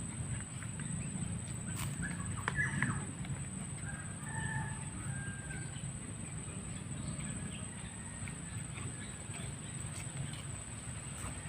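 Birds calling in short scattered notes, busiest a few seconds in, over a steady high insect drone and a low rumble.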